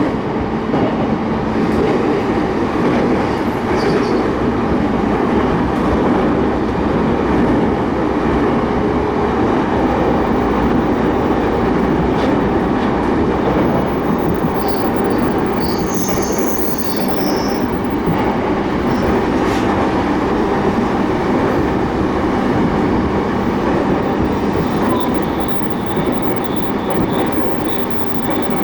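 Keiyo Line rapid train running at speed, heard from inside the car: a steady rumble of wheels on rail. Brief high-pitched wheel squeals come in about halfway through, and fainter ones near the end.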